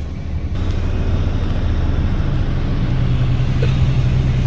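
Nissan S14 with a swapped-in VQ35HR 3.5-litre V6 running at low speed as it creeps onto a vehicle scale: a steady low engine drone. It gets louder about half a second in and steps up slightly in pitch around a second and a half in.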